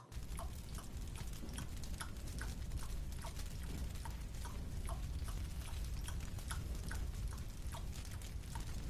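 A mouth chewing a marshmallow: soft, wet clicks in an even rhythm of about two to three a second, over a low, steady hum.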